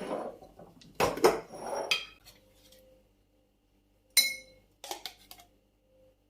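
Dishes and containers being handled, clattering and knocking together for the first couple of seconds. About four seconds in comes a single sharp clink that rings briefly, like glass, followed by a few light knocks.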